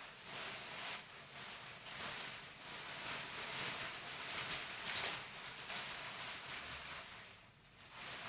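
A plastic raincoat rustling and crinkling as it is pulled on, in irregular swishes that ease off near the end.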